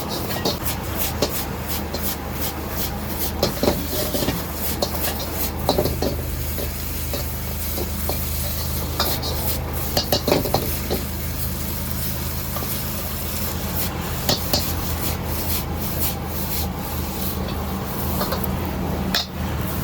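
A metal spatula stirring, scraping and clanking in a wok while food sizzles, over a steady low hum.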